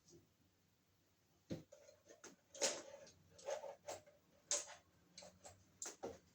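Wiremold surface raceway being handled and cut: a run of irregular sharp clicks and clinks, some with a short ring, from about a second and a half in until near the end.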